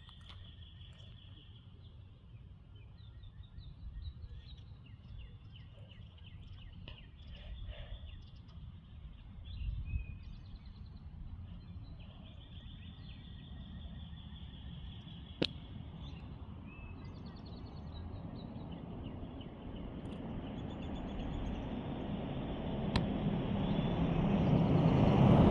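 Outdoor ambience: small birds chirping now and then over a low rumble of wind. A rushing noise swells steadily louder over the last several seconds.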